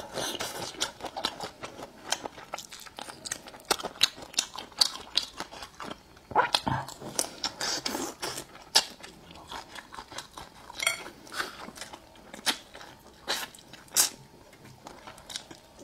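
Close-miked chewing of a grilled prawn: irregular crisp crunches and wet mouth clicks, several a second at times.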